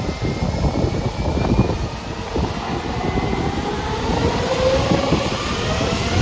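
Jet airliner engines running, a deep rumble with a whine that climbs slowly in pitch as the sound grows louder toward the end.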